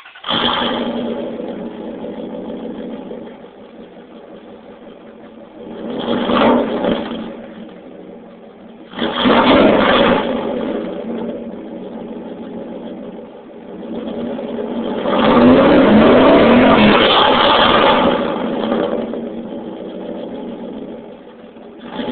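1998 Dodge Ram 1500 pickup's loud aftermarket exhaust with dual 3-inch tips: the engine idles and is revved three times, briefly about six and nine seconds in, then held higher for about three seconds a little past halfway before dropping back to idle. Thin, cut-off sound of a cell-phone recording.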